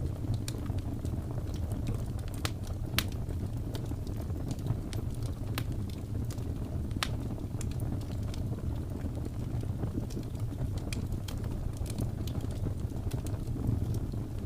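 Wood fire burning in a fireplace: irregular sharp crackles and pops over a steady low rumble, with a few louder pops about 2.5, 3 and 7 seconds in.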